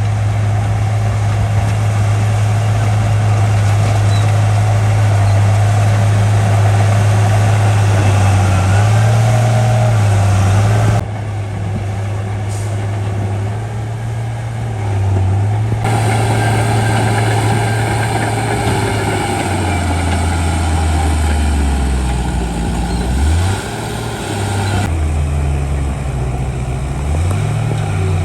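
Shantui D95 bulldozer's diesel engine running steadily under load. Its pitch sags and recovers several times as it pushes fill, and the sound shifts abruptly a few times.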